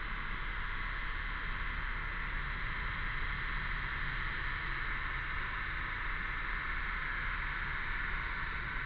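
Cicadas buzzing in a steady, unbroken chorus, with a low steady rumble underneath.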